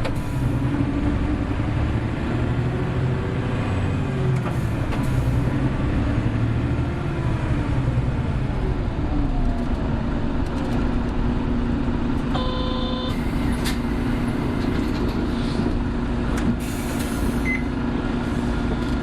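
Onboard running sound of a Hino Blue Ribbon City hybrid bus: the diesel engine note rises and falls as it drives, then drops about nine seconds in and settles to a steady low hum. About twelve seconds in a short electronic chime sounds, followed by hissing.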